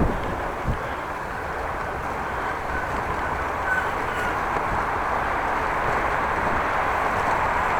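Wind rushing over a bicycle-mounted camera's microphone, with the low rumble of tyres on the road while riding. There are two short knocks near the start, and the noise grows slightly louder towards the end.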